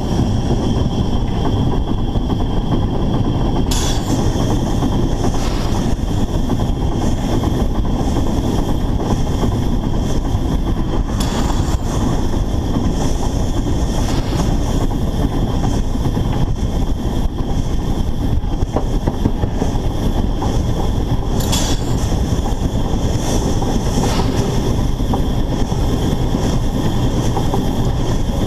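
Narrow-gauge steam locomotive on the move, heard from up close on the engine: a loud, steady rumble of running gear and track noise, with a few sharp clacks about four, eleven, twenty-one and twenty-four seconds in.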